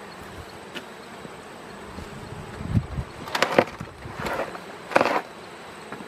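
Honeybees buzzing around an open hive. Three short scuffing noises in the second half.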